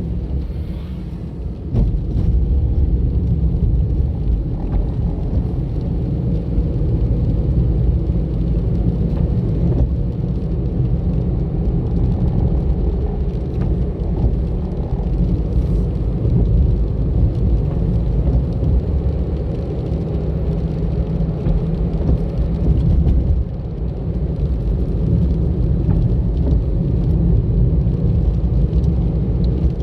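Car on the move: a steady low rumble of engine and tyres on the road, getting a little louder about two seconds in.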